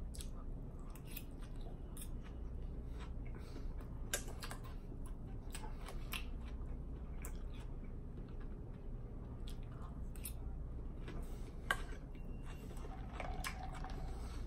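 Close-up chewing and crunching of a Greek salad of lettuce, cucumber, chicken and feta. Small crisp clicks come irregularly throughout, with a sharper click about four seconds in and again near the end.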